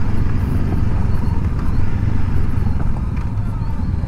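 Honda CL500's parallel-twin engine running as the motorcycle is ridden, a steady low rumble.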